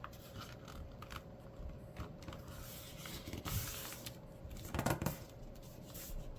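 Paper rustling and being creased by hand as a paper airplane's wing is folded down, with short louder rustles about three and a half and five seconds in.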